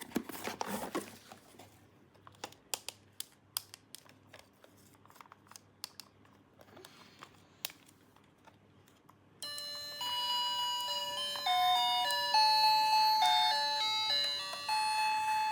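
Small plastic clicks and taps of toy playset pieces being handled, then about nine seconds in a bright electronic chime tune starts and plays on, the simple beeping melody of a toy's sound chip, like a doorbell tune.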